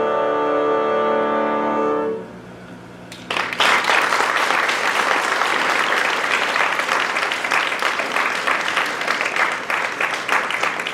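An orchestra holds a final sustained chord that cuts off about two seconds in; after a brief pause the audience breaks into steady applause.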